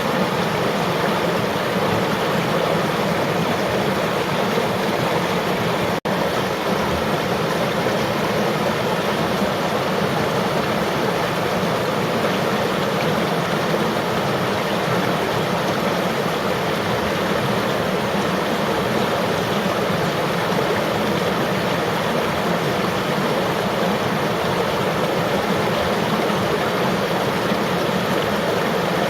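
Flowing river water rushing steadily, with one split-second dropout about six seconds in.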